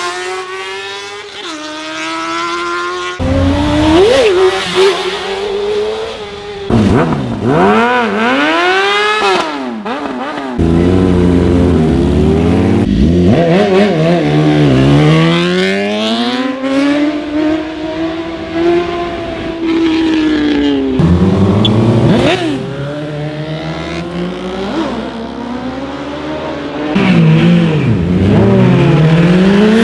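Sportbike engines accelerating hard and passing by, their pitch climbing through the gears and then swinging down as each bike goes past, with sudden switches from one bike to the next.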